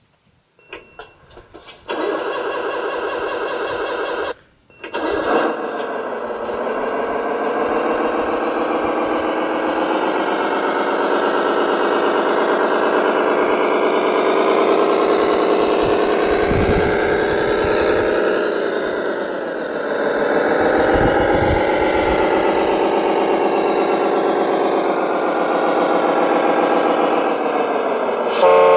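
Radio-controlled construction vehicle's engine sound starting up about two seconds in, cutting out briefly, then running steadily, its pitch dipping and recovering twice as it works.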